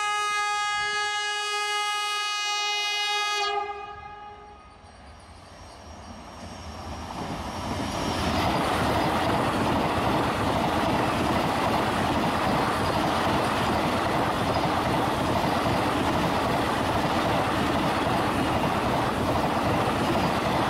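Vande Bharat electric train's horn sounding one long steady blast for about three and a half seconds, then dying away. After a quieter moment, the rushing noise of the train running past close by builds over a couple of seconds and holds steady.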